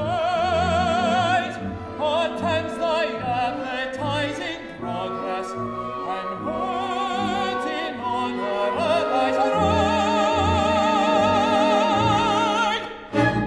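Operatic singing with an orchestra: a voice with wide vibrato sings a phrase over sustained strings, then holds a long high note from about ten seconds in, closing with a short loud accent near the end.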